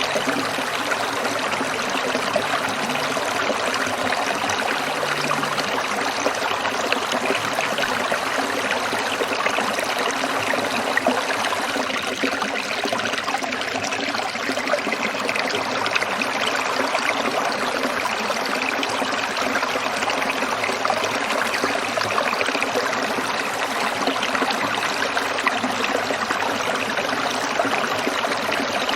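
Stream water trickling and babbling steadily over stones, an even splashing that doesn't change.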